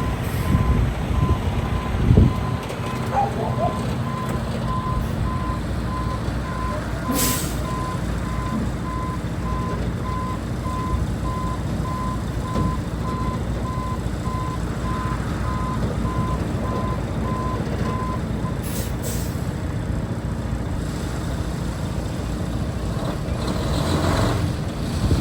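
Western Star 4700 crane truck's diesel engine running as it reverses, its backup alarm beeping steadily at one pitch until about eighteen seconds in. Short air-brake hisses come about seven seconds and nineteen seconds in.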